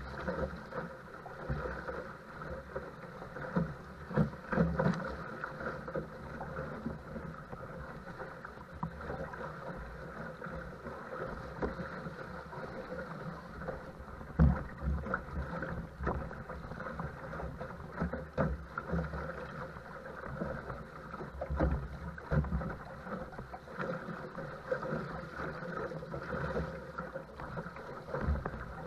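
Choppy wind-driven water splashing and slapping against a small paddle craft, with irregular low thumps from the hull hitting waves and wind buffeting the microphone.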